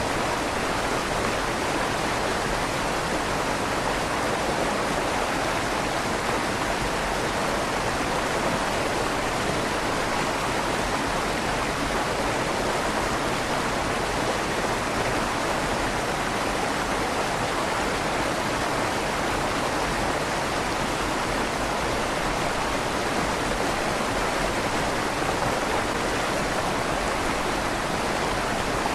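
A river flowing steadily through a stone tunnel under a bridge, a continuous even rush of water with a slight echo off the stone walls.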